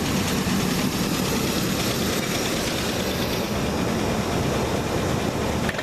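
Chevy 350 small-block V8 idling steadily, an engine the owner calls pretty worn out.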